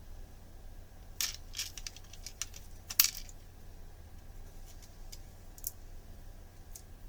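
Small hard parts clicking and clinking together as they are handled and fitted: a quick cluster of clicks about a second in, one sharp loud click about three seconds in, and a few lighter ones after.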